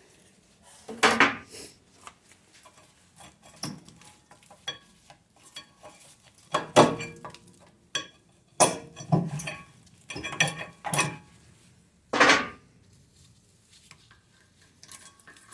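Metal brake parts, the brake pads and their hardware clips, clinking and clattering as they are handled and set down: a string of separate metallic clanks, the loudest several coming between about seven and twelve seconds in.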